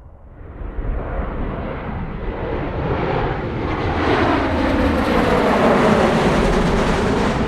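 Jet airliner passing close by, its engine noise building to a loud peak, with tones sweeping downward in pitch as it goes past.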